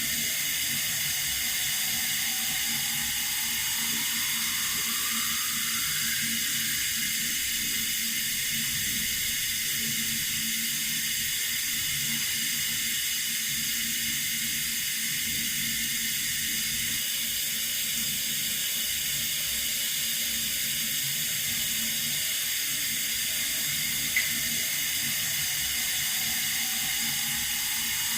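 Water running steadily from a tap, an even hiss, with a single short click about 24 seconds in.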